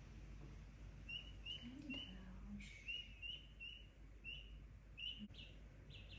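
Small bird chirping faintly, a string of short high chirps repeating one or two times a second.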